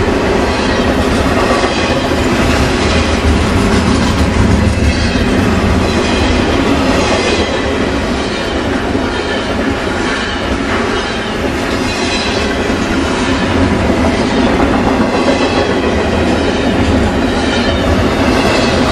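BNSF double-stack container train passing close by: a steady rumble of steel wheels on rail, with a clatter that comes back every couple of seconds as each car's wheel sets go by.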